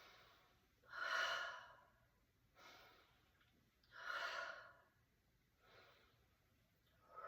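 A person breathing slowly and audibly in controlled breath work: deep breaths in and out, the two strongest about three seconds apart, with fainter breaths between them and another starting near the end.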